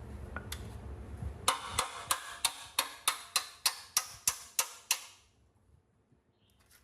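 About a dozen sharp taps, evenly spaced at about three a second, which stop abruptly about five seconds in. A low rumble underneath cuts off about two seconds in.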